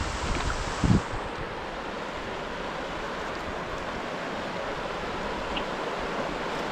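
Steady rush of a mountain creek's flowing water. There are low rumbles of wind on the microphone and a low thump about a second in.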